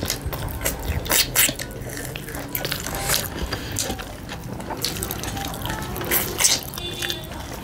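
Close-up wet chewing and lip-smacking of people eating rice and pork by hand, with irregular soft clicks and smacks.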